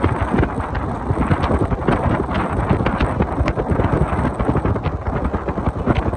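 Wind buffeting the microphone in a moving car, a dense irregular rumble and crackle over road noise.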